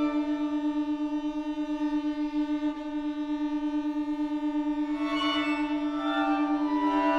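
String octet of violins, violas and cellos playing contemporary chamber music: a held lower note pulses rapidly throughout, under sustained higher notes that shift and thicken about five seconds in.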